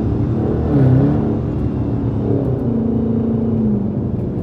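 Car engine accelerating at highway speed. Its pitch dips and climbs again about a second in, like a gear change, then holds steady and eases down near the end.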